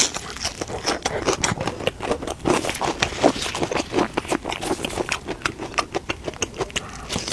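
A person eating close to the microphone: chewing and wet mouth sounds in a dense, irregular run of small clicks and smacks.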